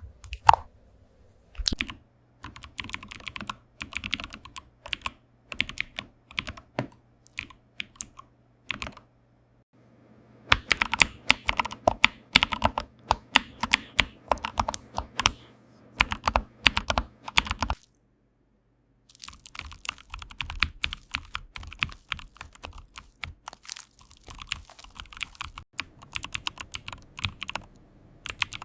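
Computer keyboard typing: quick runs of clicking keystrokes. The typing stops briefly twice, about nine and eighteen seconds in.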